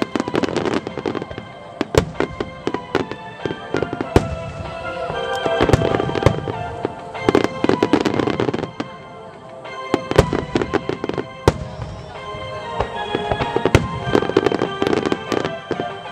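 Large aerial firework shells fired in a rapid barrage, sharp bursts and booms following one another closely, with denser clusters about 5 to 9 seconds in and again near 13 to 15 seconds. Music plays steadily underneath.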